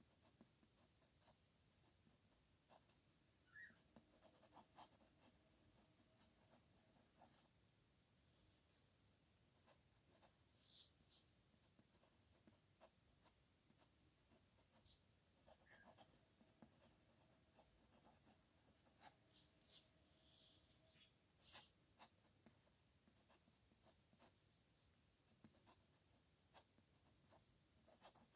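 A pen scratching on paper in quick, irregular strokes while a signature is written, faint and close, with denser runs of strokes in places.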